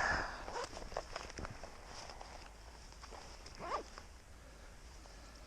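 Footsteps crunching in fresh snow, irregular and loudest in the first second or two, with a short louder scuff about three and a half seconds in.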